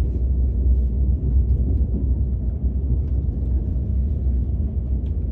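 Steady low rumble of a KTX high-speed train cabin while the train runs.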